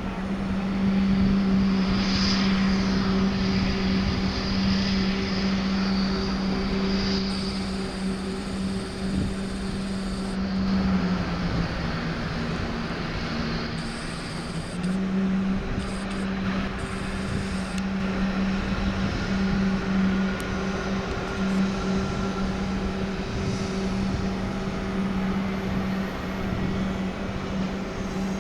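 Jet airliner engines running steadily, a constant low hum with a faint high whine; the hum dips briefly about halfway through.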